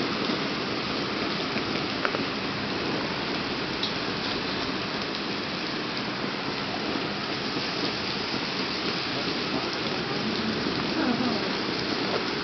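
Heavy rain falling steadily on paving, parked cars and trees in a thunderstorm downpour, with a few sharper drop clicks close by.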